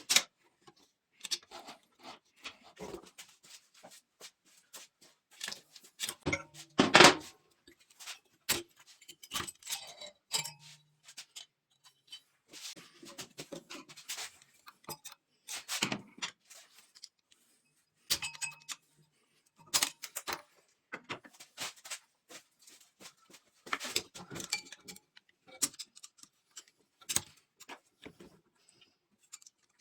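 Irregular clinks and knocks of metal tools and engine parts being handled, the loudest about seven seconds in.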